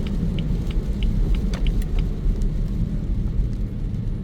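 Car cabin rumble from a moving car, steady and low, with a light regular ticking about three times a second.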